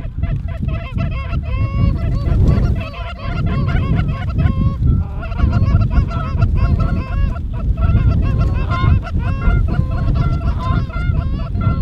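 Many overlapping goose honks, one call after another without a break, over heavy wind rumble on the microphone.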